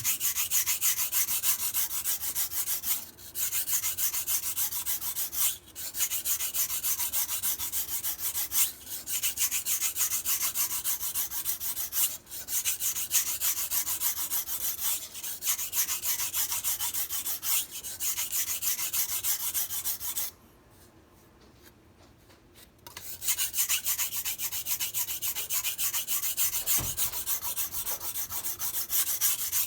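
MAC chef knife blade stroked back and forth on a whetstone in quick, rhythmic scraping strokes, sharpening the middle portion of the edge. The strokes break off briefly a few times and stop for about two seconds roughly two-thirds of the way through.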